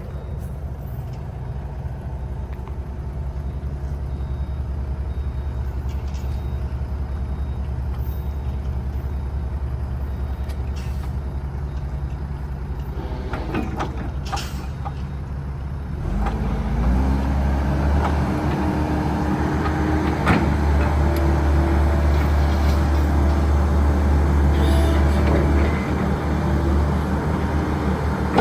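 Kobelco SK135SR excavator's diesel engine running steadily, then about halfway through it rises in pitch and gets louder as the machine is put to work, with a few clanks just before.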